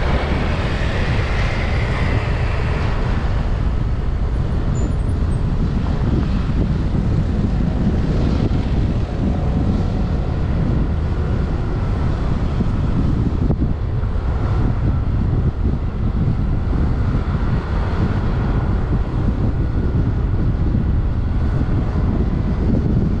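Steady riding noise from a motorbike on the road: wind rumbling on the microphone over engine and traffic noise.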